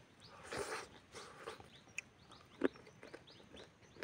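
A person chewing a mouthful of rice and chicken eaten by hand, with soft mouth noises and a few sharp wet smacks, the loudest about two and a half seconds in. Faint bird chirps in the background.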